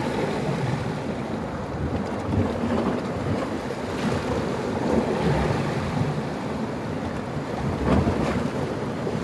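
Sea waves breaking on the beach, the surf swelling and washing back about every three seconds, with wind rumbling on the microphone.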